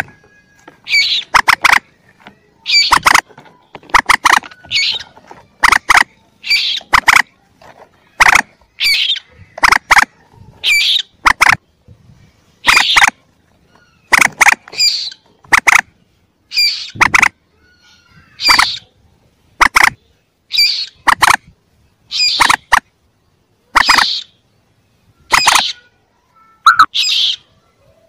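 Lure recording of young common moorhen calls: short, sharp calls repeated about once a second, often in close pairs.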